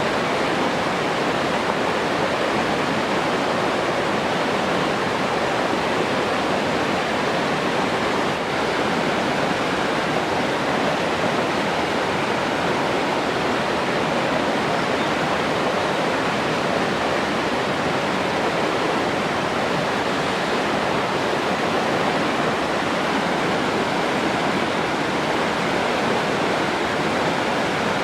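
Steady rushing water, a continuous even wash with no separate splashes or other events.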